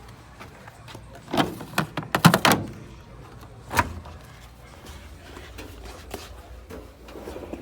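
A quick run of sharp knocks and clatters about a second and a half in, then a single knock near four seconds, over a low steady hum.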